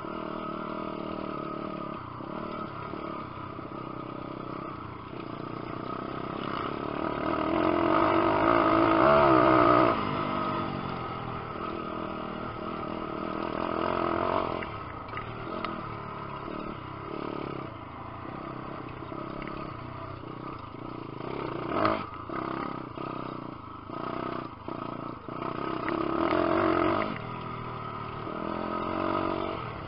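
Lifan 150cc single-cylinder four-stroke pit bike engine being ridden hard, its revs rising and falling with the throttle. It swells to its loudest about eight to ten seconds in, then is blipped on and off in short bursts in the last third.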